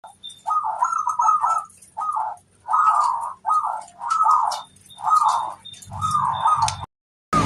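Zebra dove (perkutut) cooing: a series of short rolling coos repeated in phrases with brief pauses between them. It cuts off abruptly near the end.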